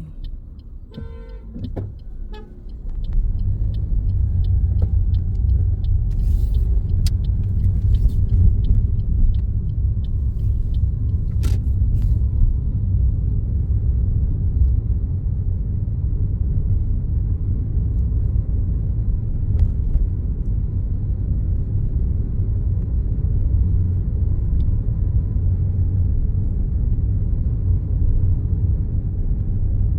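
Car engine and road rumble heard from inside the cabin. The car is quiet for the first moments, then pulls away about three seconds in and drives on with a steady low rumble. There is a brief high tone about a second in.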